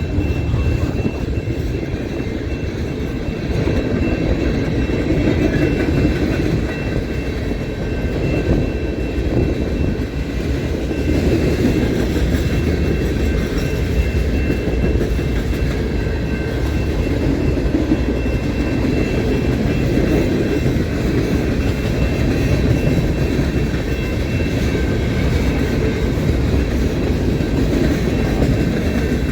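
A train's cars rolling past on the rails: a steady, unbroken rumble of wheels on track with a faint clickety-clack.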